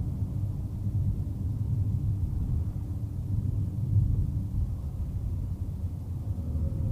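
Steady low rumble of a moving vehicle, heard from inside as it travels.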